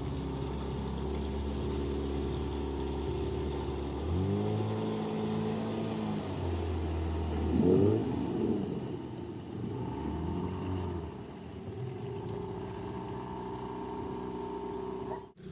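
Sea Pro 9.9 two-stroke outboard motor running under way at speed, its pitch stepping up about four seconds in, wavering around the middle, then settling steady again before cutting off just before the end.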